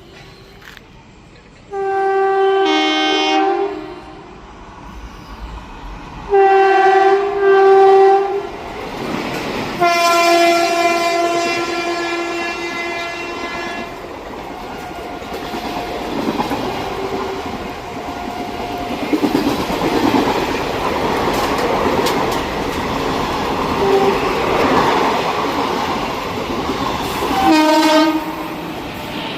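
Train horn sounding several times: a first blast, then two close together, then a longer one. The rumble and clickety-clack of a passing train follow, with one more short horn blast near the end.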